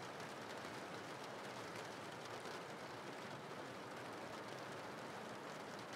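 Steady rainfall: an even, continuous hiss.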